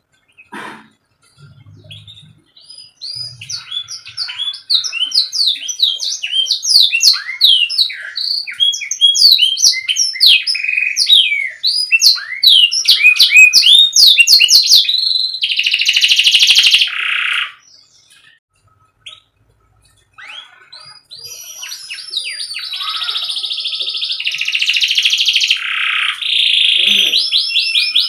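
Domestic canary singing a tutor ('master') song: quick runs of high chirping notes, then a loud buzzy roll about halfway through. After a short pause it goes into long sustained rolling trills near the end.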